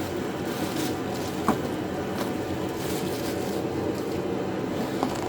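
Steady hum of a running heater, with a few light knocks of parts being handled and one sharper knock about a second and a half in.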